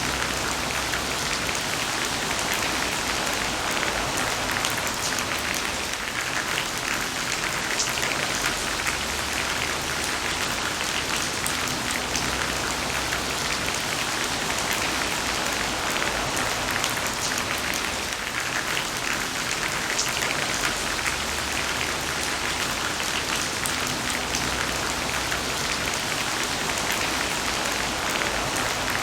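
Heavy rain falling steadily: a dense, even hiss of countless drops pattering on a surface.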